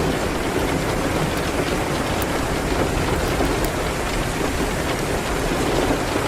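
Steady heavy rain falling, with a deep low rumble under it and a few faint sharp ticks.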